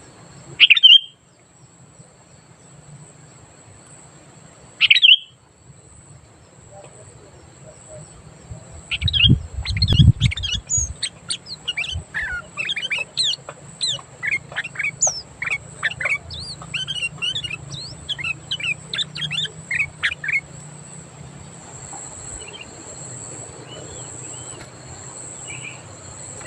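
Sooty-headed bulbul (kutilang) calling: two short loud calls in the first five seconds, then about eleven seconds of fast, chattering song of many quick notes. A brief low rumble comes around ten seconds in, and a faint steady high tone runs underneath.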